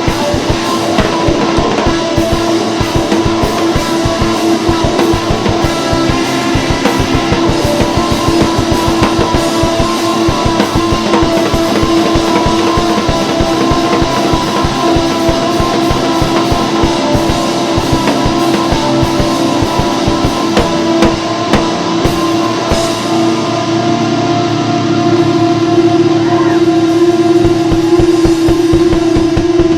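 Loud rock music with a fast drum kit and distorted electric guitar, the guitar holding a steady droning chord; the drums drop back somewhat about two-thirds of the way through.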